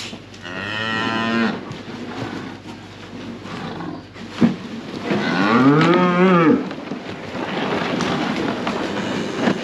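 Cattle mooing: two calls, a shorter one about half a second in and a longer one about five seconds in that rises and then falls in pitch.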